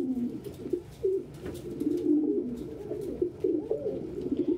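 Several domestic pigeons cooing, their low calls overlapping one another.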